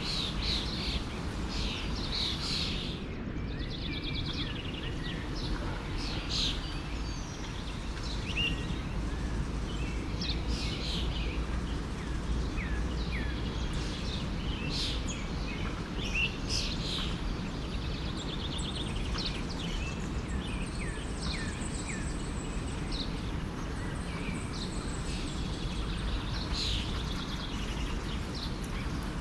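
Forest stream flowing with a steady, even rush, while several small birds chirp and trill in short calls throughout.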